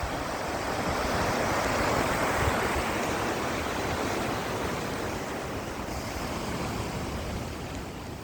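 Ocean surf: a wave breaking and washing in, rising to its loudest about two seconds in, then slowly fading.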